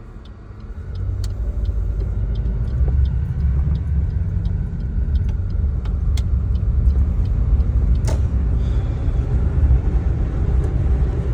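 Low, steady motor-vehicle rumble that swells about a second in and then holds, with faint scattered clicks above it.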